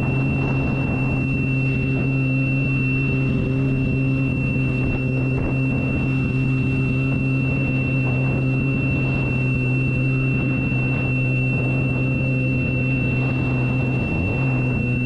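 Watercraft engine running steadily at constant speed under a thin, steady high-pitched tone.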